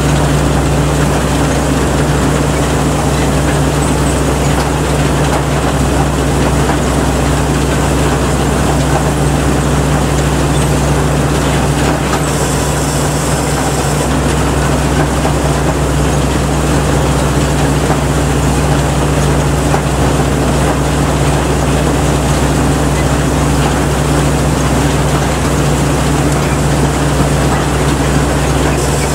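Rice combine harvester running at a steady speed: a loud, continuous engine drone with steady low hum tones under an even mechanical noise, never changing pitch.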